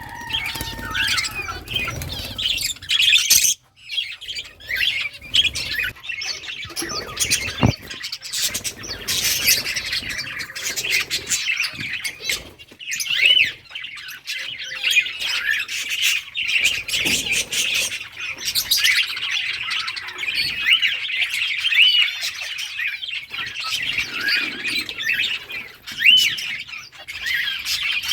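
A flock of budgerigars chirping and squawking without a break, many birds calling over one another in quick, high chirps.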